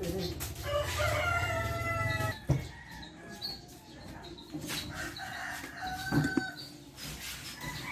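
A rooster crowing once in a long, steady call about a second in, followed by a sharp knock.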